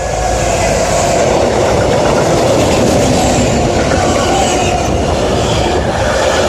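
Train running past close by: a loud, steady rolling noise of wheels on rails that builds up just before and holds throughout.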